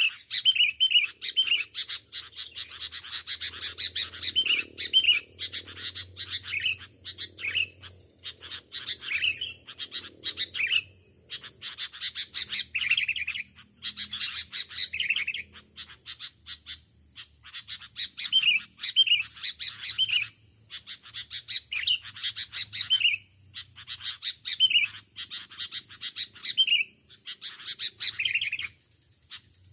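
Sooty-headed bulbuls calling: short whistled phrases repeated every second or so, mixed with sharp chattering notes.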